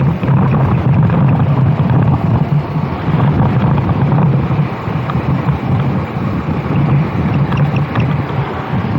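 Kart engine running steadily under way, with wind buffeting the microphone.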